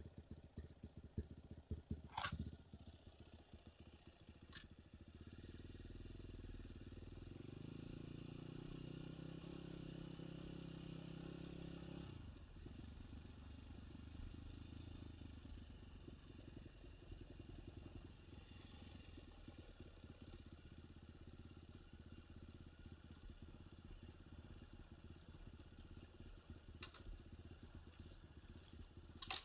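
Enduro motorcycle engine running at low revs, its note rising slightly from about seven seconds in and cutting off suddenly a few seconds later. A few sharp clicks, the loudest about two seconds in.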